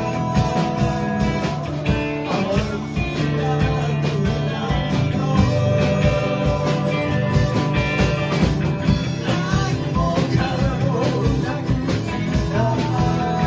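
Live band playing a Japanese folk-rock song, with guitars and drums and a singing voice over them.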